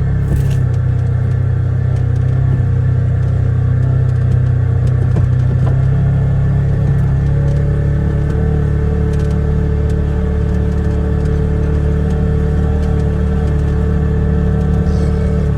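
2022 Polaris Ranger Crew 1000 XP side-by-side's twin-cylinder engine running steadily under way, a constant drone with a higher whine joining about halfway through.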